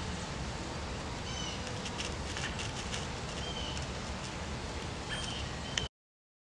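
Several short, high bird chirps and calls over a steady outdoor background hiss. The sound cuts off suddenly to silence near the end.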